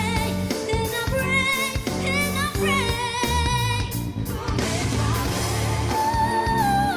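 A female solo voice singing a pop song in English over backing music with a beat, holding long wavering notes.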